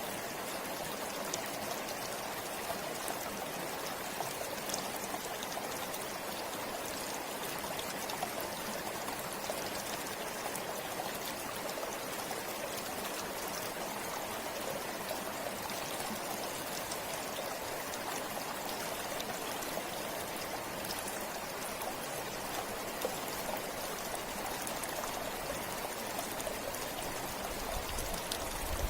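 Forest river or stream flowing steadily, a constant rush of water with fine splashing and trickling.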